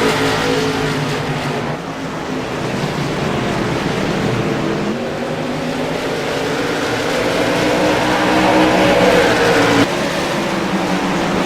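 Late model stock car engines racing around a short oval, several cars at once, their pitch swelling and sliding as the pack goes by. The sound changes abruptly a little before the end.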